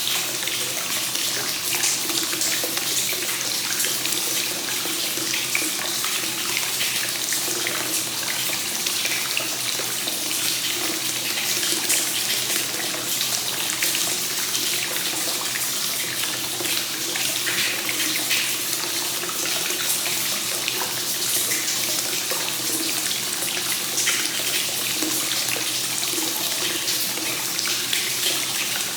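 Hot spring water flowing continuously into a bath straight from the source (kakenagashi), a steady, unbroken splashing and pouring.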